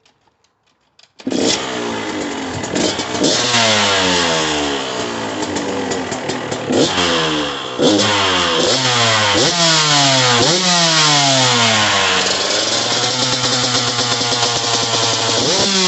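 KTM 125 SX two-stroke single starting about a second in through a freshly fitted FMF shorty silencer. It is then blipped again and again, each rev rising sharply and falling away. It holds a steady idle for a couple of seconds before another rev near the end.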